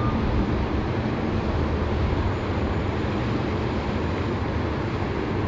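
Steady rushing noise of riding a bicycle: wind buffeting the microphone with a low rumble of road noise.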